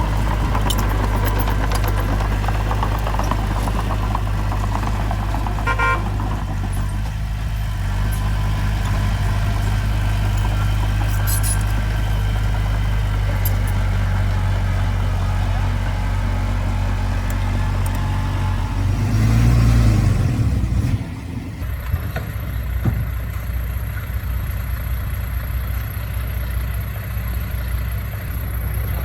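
Diesel engine of heavy earthmoving machinery running with a steady deep drone. About two-thirds of the way through it swells louder with a brief rise in pitch, then drops back to a quieter run, joined by a thin high steady whine.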